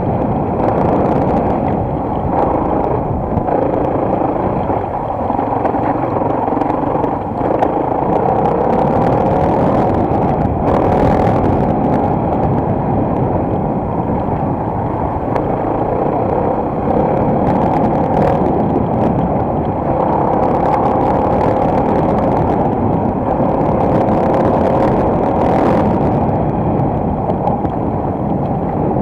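Single-cylinder enduro motorcycle engine running while riding, its pitch rising and falling with the throttle, heard muffled through an action camera.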